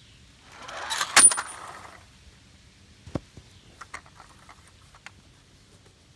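Handling noise: a stretch of scraping, then a sharp metallic clink with a brief high ring about a second in, followed by a few light clicks.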